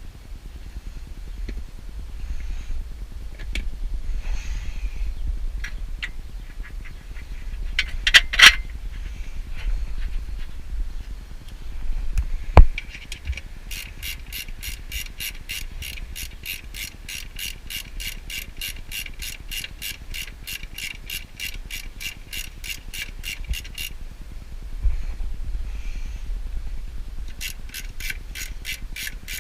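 Ratchet wrench turning a bolt, a long run of even clicks several a second, stopping and starting again near the end. Two sharp metallic knocks come before it.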